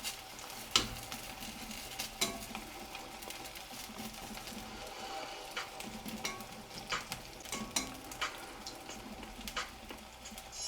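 Batter-coated potato fritters (aalu chop) deep-frying in hot oil in a kadai, sizzling steadily, with scattered clicks and knocks of a utensil against the pan.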